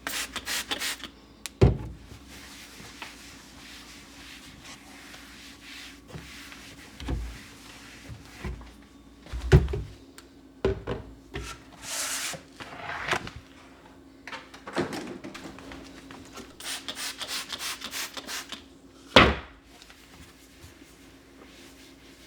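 Household handling sounds: several sharp knocks of things being set down or bumped, and short bursts of rubbing or sliding, over a faint steady hum.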